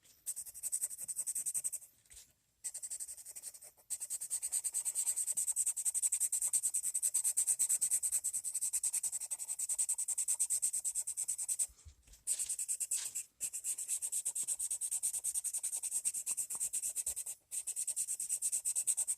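Coloured pencil shading on paper: rapid back-and-forth scratchy strokes of a freshly sharpened pencil, in long runs with a few brief pauses.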